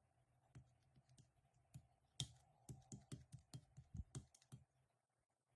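Faint, irregular clicking or tapping, about fifteen short clicks over four seconds, which stop about a second before the end.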